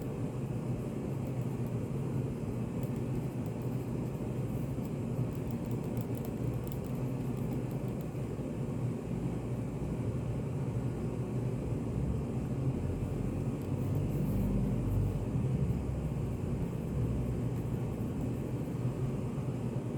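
Study café ambient white noise: a steady, low rumbling room hum with no voices, swelling a little in the bass past the middle.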